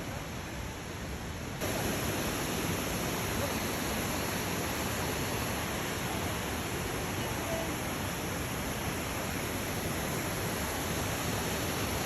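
Steady rushing water of a gorge waterfall, jumping louder abruptly about one and a half seconds in and then holding even.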